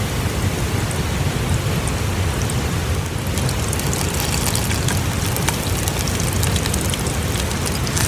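Kudzu and nobiru tempura deep-frying in hot oil: a steady sizzle that grows busier with fine crackles about three seconds in, over a steady low rumble.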